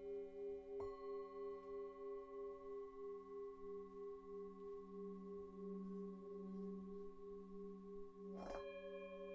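Several singing bowls ringing together in long, steady overlapping tones with a slow wavering pulse. A bowl is struck about a second in and another near the end, each adding a new ringing tone.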